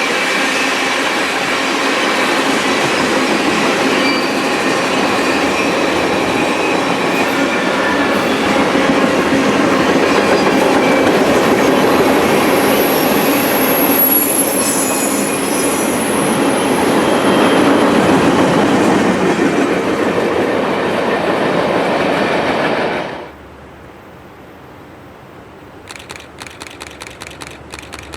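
A train rolling past on the rails, a loud steady clatter of wheels with a high wheel squeal in the middle. It cuts off abruptly about 23 seconds in, leaving quieter background and a quick run of clicks near the end.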